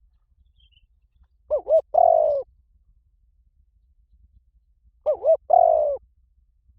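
Spotted dove cooing: two phrases about three and a half seconds apart, each two short quick notes followed by a longer falling coo. It is the recorded call played to rouse caged decoy doves into calling.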